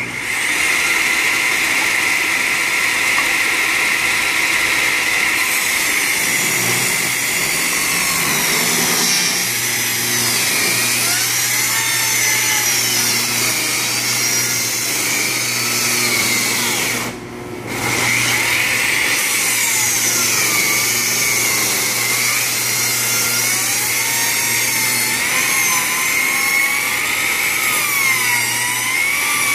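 Bosch table saw running under load as it rips a long board with a newly fitted blade. The motor whine holds steady while higher tones waver as the blade cuts, and the sound drops briefly about halfway through.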